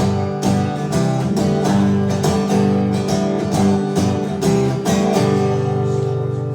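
Acoustic guitar strummed in a steady rhythm, its chords ringing on as an instrumental passage after the last sung line of a song.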